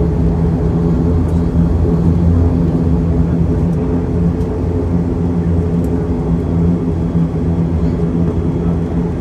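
ATR 72 turboprop engines and propellers running steadily, heard from inside the cabin as a loud, even drone with several fixed low tones.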